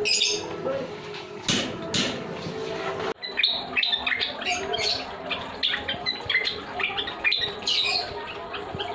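Cage birds calling with many short, quick chirps and squawks, starting about three seconds in. Before that there are a couple of sharp knocks.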